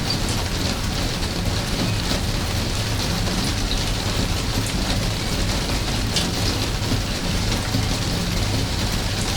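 Steady rain falling, a dense even hiss with an occasional heavier drop splashing, once about two seconds in and once about six seconds in.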